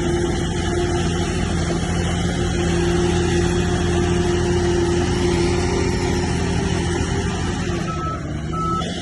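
A bulldozer's heavy diesel engine running steadily under load, with two short high beeps near the end.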